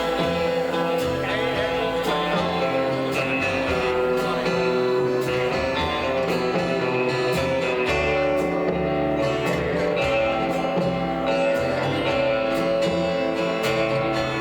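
Live rockabilly band playing an instrumental passage, led by guitar over a walking bass line and a steady drum beat.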